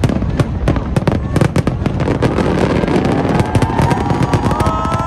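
Fireworks going off in a dense run of crackling pops and bangs. From about halfway, several long held tones at different pitches sound over the crackle.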